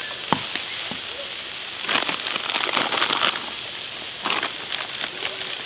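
Steak strips, peppers and onions sizzling and crackling in their juices on a steel cooking disc cut from a 55-gallon drum, louder from about two seconds in. A single sharp tap sounds near the start.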